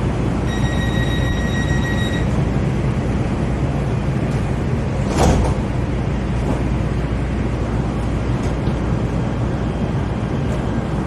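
Los Angeles Metro light rail train running, heard from inside the car: a steady rumble, with a brief high steady whine near the start and a single knock about five seconds in.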